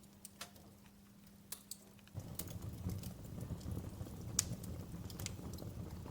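Wood fire in a fireplace crackling, with sharp scattered snaps and pops. About two seconds in, a louder low rumble of flame sets in suddenly and the crackling grows denser.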